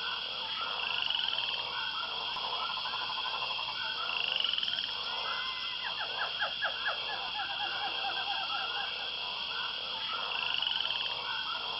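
A chorus of calling animals: many short repeated calls over a steady high buzz, with a few louder sharp calls about six seconds in.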